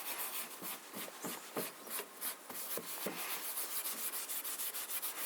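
Hand rubbing pale boiled oil into the dry timber of a White Rotary treadle sewing machine cabinet along the grain: quick back-and-forth strokes making soft, scratchy swishes, about three a second.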